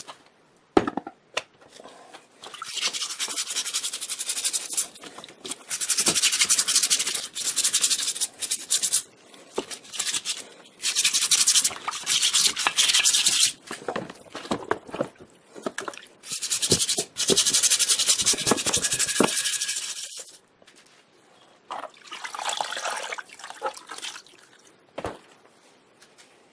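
Abrasive rubbing on a compressor part during restoration, in bursts of one to three seconds separated by short pauses, with a few knocks in between.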